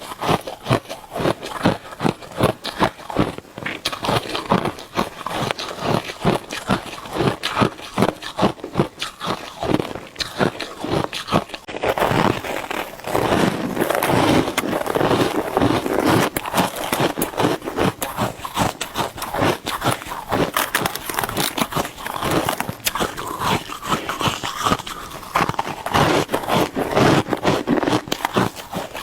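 Shaved ice being bitten and chewed: a fast, unbroken run of crisp, irregular crunches.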